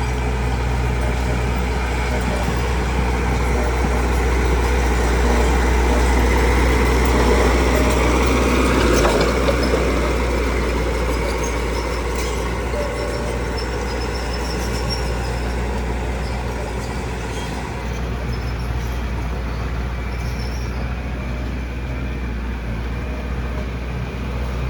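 Engine of heavy construction machinery running steadily. It grows louder to a peak about nine seconds in, then eases back.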